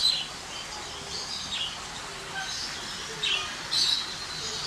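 Birds chirping: short, high calls one after another, several in a few seconds, with a loud one right at the start and others about three and four seconds in.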